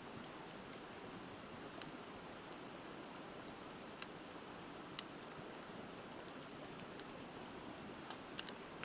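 Wood fire crackling, with a few sharp pops, over the steady rush of a river.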